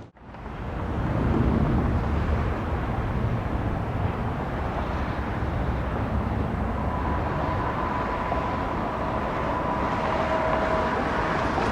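Jet airliner engines running with a steady rumble. A thin, high steady whine joins in about seven seconds in.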